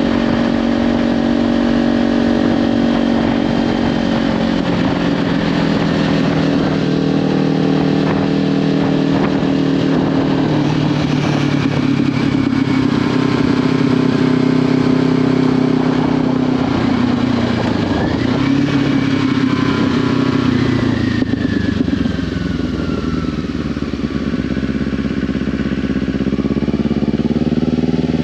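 Kawasaki Ninja 500 parallel-twin engine, through a Leovince slip-on exhaust, running under way, with its pitch changing as the throttle is worked: it drops about four seconds in, climbs again a little past the middle, eases off and then picks up near the end. Wind noise on the microphone runs under the engine.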